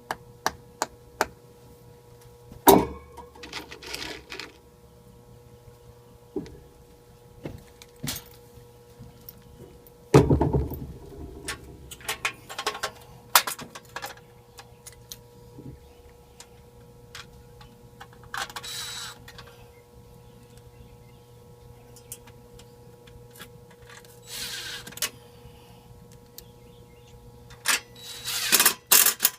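Handling and work noise: scattered sharp clicks and knocks and short scraping stretches, with one heavy thump about ten seconds in, over a steady electrical hum.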